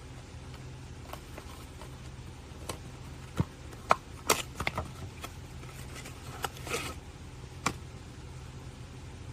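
Irregular light clicks and taps, about a dozen, with a short rustle, over a steady low hum; the loudest clicks come about four seconds in.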